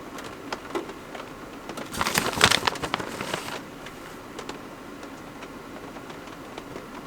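Campfire crackling and popping, with sharp snaps here and there and a loud burst of dense crackling about two seconds in that lasts over a second.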